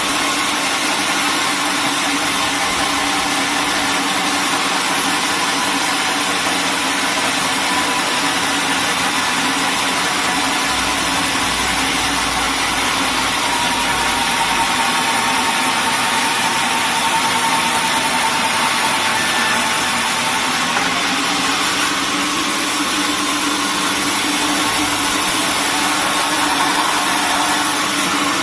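Sawmill machinery running steadily: a constant machine drone with a dense hiss, and a faint whine that wavers in pitch partway through.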